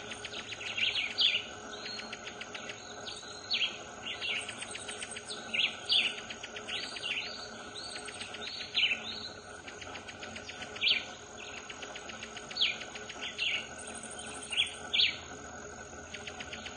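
Bird calls: short, sharp high chirps repeated irregularly, roughly one every second or so, over a steady fast high trill.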